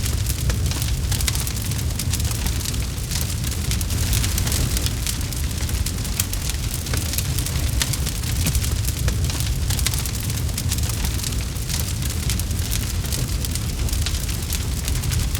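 Campfire burning with continuous dense crackling, many small sharp pops, over a steady low rumble.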